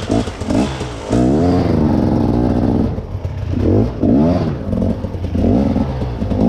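Trail motorcycle engine revving up and down over and over, with the revs climbing and dropping several times in quick succession.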